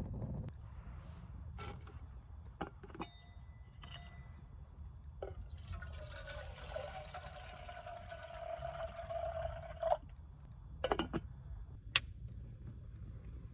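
Lighter clicked several times, then a steady hissing flame for about four seconds, then a few more clicks, while lighting fire lighters on a campfire. Low wind rumble underneath.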